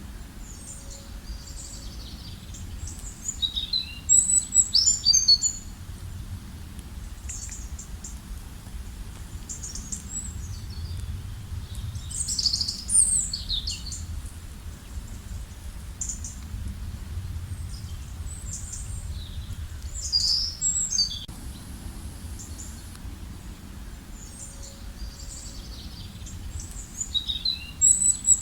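Songbirds singing: a loud phrase of rapid high notes comes back about every eight seconds, with fainter chirps between, over a steady low background rumble.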